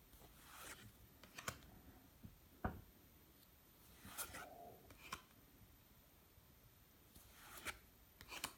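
Faint rustling and light taps from handling Yu-Gi-Oh! cards and their packaging, in a few scattered strokes, with a soft thump about two and a half seconds in.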